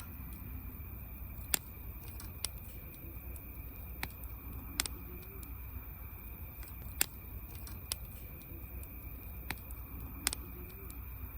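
Wood campfire crackling: irregular sharp pops and snaps, about a dozen, over a steady low rumble.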